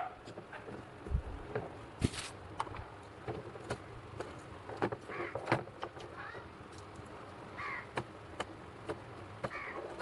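Battery-operated toy bird playing short recorded bird calls, about five times over the second half, among scattered clicks and knocks.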